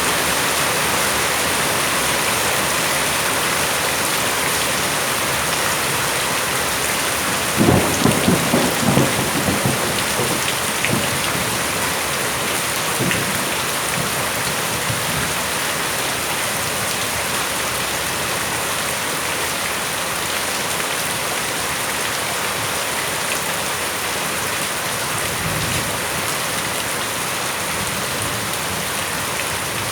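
Steady rain falling, with a low rumble of thunder rolling for a couple of seconds about eight seconds in and a fainter one near the end.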